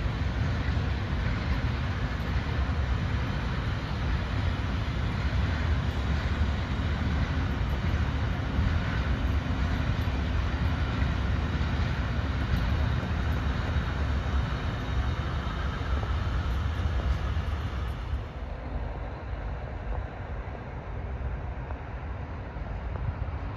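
A long freight train of trailer- and container-carrying wagons rolling past on the rails, a steady deep rumble of wheels and wagons. About eighteen seconds in it gives way to a softer, more distant rumble.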